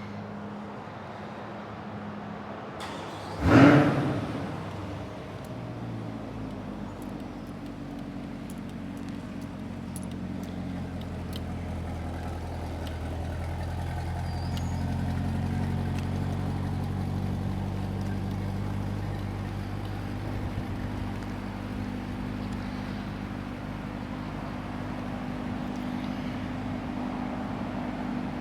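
Chevrolet C8 Corvette's 6.2-litre V8 remote-started: the engine catches with a loud flare about three and a half seconds in, then settles into a steady idle.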